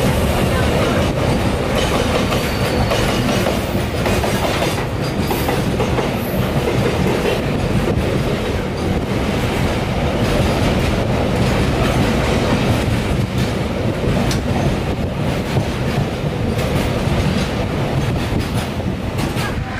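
Express passenger train running at speed, heard from an open coach door: a steady heavy rumble with a fast clatter of wheels on the rails, running close beside a double-stack container freight train on the next track.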